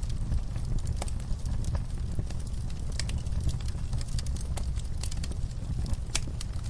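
Wood fire crackling in a fireplace: irregular sharp snaps and pops of burning logs over a steady low rumble of the flames.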